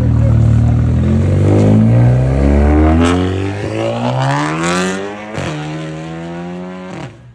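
A car engine accelerating hard, its note climbing with short breaks about three and a half and five and a half seconds in, as at gear changes. It gets quieter after the loudest stretch in the first few seconds and drops away sharply near the end.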